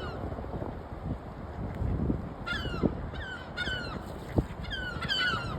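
Birds calling in short runs of brief, downward-sliding notes, several notes a second, in bouts at the start, around the middle and near the end, over a low rumbling background. There is one sharp tap about four seconds in.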